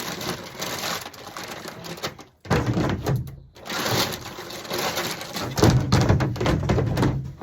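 Birdseed and a plastic bird feeder being handled, a dense rattling and rustling in three stretches with two short breaks.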